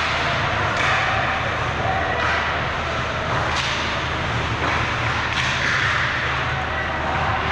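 Ice hockey play on an arena rink: skate blades scraping the ice, with several sharp cracks of sticks and puck.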